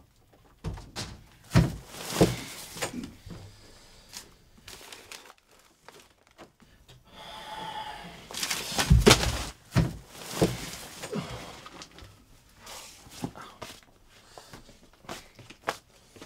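Someone rummaging through piles of paper, plastic bags and boxes: scattered thuds and knocks with paper and plastic rustling between them, the loudest knocks about nine seconds in.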